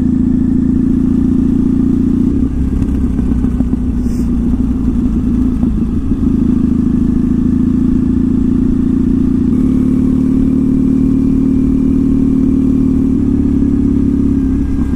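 2014 Triumph Thruxton's air-cooled parallel-twin engine running at a steady cruise through British Customs slash-cut TT exhausts, heard from the rider's position. The engine note goes unsteady a couple of seconds in, then shifts in pitch at about ten seconds and again near thirteen seconds as the throttle changes.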